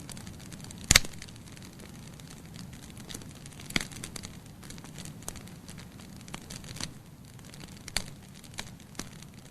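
Wood logs burning in a fireplace: a steady low rush of flame with scattered crackles and sharp pops. The loudest pop comes about a second in, with others near four and eight seconds.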